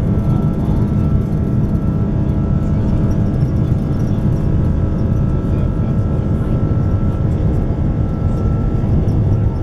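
Airbus A330's jet engines at takeoff power heard from inside the passenger cabin: a loud, steady rumble with faint steady whining tones above it.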